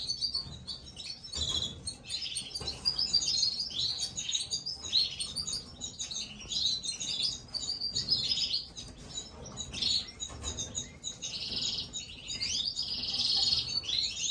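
Gloster canary chicks chirping rapidly and continuously in high, buzzy calls, the begging calls of nestlings being fed.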